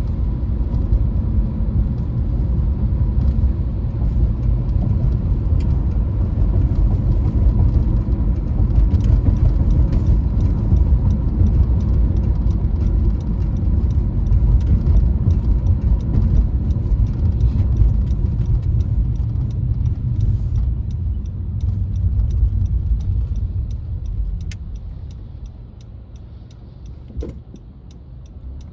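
Car driving: a steady low rumble of engine and road noise that quietens over the last several seconds as it slows, with faint regular ticking near the end.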